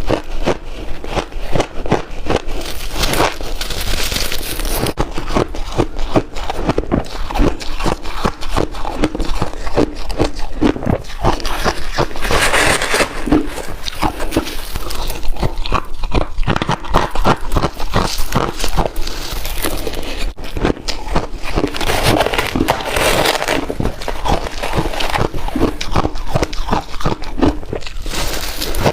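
Ice being chewed close to the microphone: a steady crunching and crackling of ice cubes breaking between the teeth, with louder crunches every several seconds.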